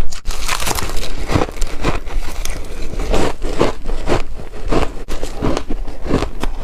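A person biting into chunks of ice: a rapid, continuous run of sharp crunches, several a second.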